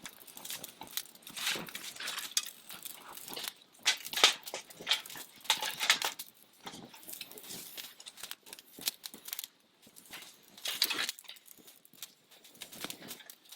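Young campfire of dry cedar leaves and small twigs crackling in a Picogrill 398 fire pit, with many irregular sharp pops and snaps as the kindling catches.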